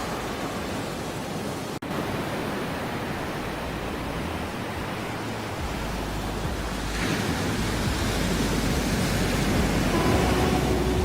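Ocean surf as a steady rushing noise that swells louder about seven seconds in. There is a split-second gap in the sound near two seconds, and held musical tones begin quietly near the end.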